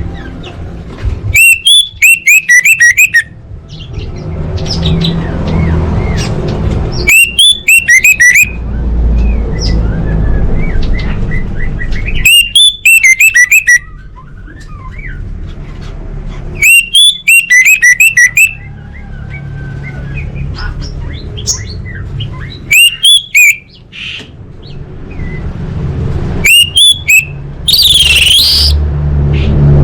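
Orange-headed thrush (anis merah) singing in loud bursts of rapid, high chirping notes, each phrase lasting a second or two and repeated about every five seconds, over a steady low rumble. A loud, wavering whistle comes in near the end.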